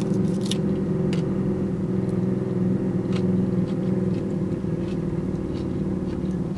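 Steady low hum of a car engine idling, unchanging throughout. Over it come a few faint crunches of salad being chewed.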